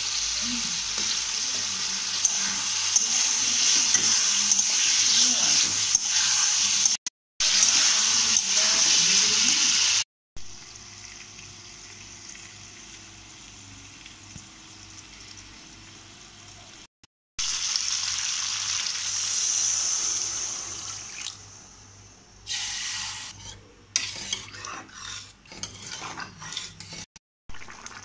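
Potato pieces frying in hot oil and masala in an iron kadai, a loud sizzling hiss in long stretches broken by sudden cuts, with a metal spatula stirring and scraping against the pan in short strokes near the end.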